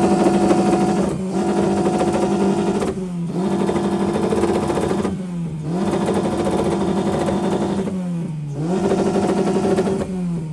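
Car engine revved hard and held at high rpm in a rev battle. The note dips briefly four times, each time climbing straight back up, then falls away near the end as the throttle is let off.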